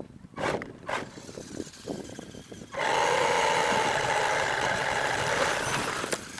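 R/C monster truck driving: a few light knocks, then about three seconds in its motor comes on loud with a steady whine from the motor and drivetrain, easing slightly near the end.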